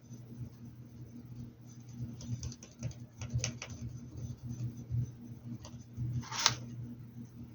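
Paintbrush scratching and dabbing on a hat in scattered short strokes with small clicks, the longest and loudest stroke about six and a half seconds in, over a steady low hum.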